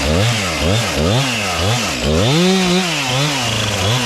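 Two-stroke chainsaw revved in quick pulses, about two a second, then held high for about a second before dropping back near the end. The saw is lightly trimming the front cut of a hung-up tree to free it.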